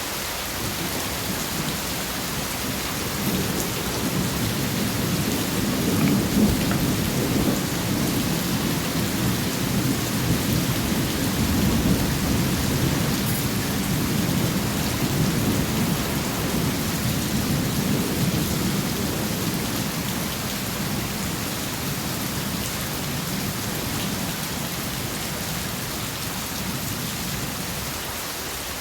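Steady rain falling, with a long low roll of thunder that builds over the first few seconds, is strongest around the middle and slowly fades away near the end.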